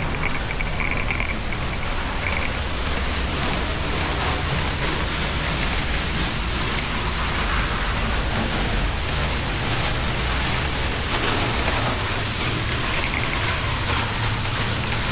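Waterfall pouring: a loud, steady rush of falling water with no break, joined by a few faint high chirps at the start and again near the end.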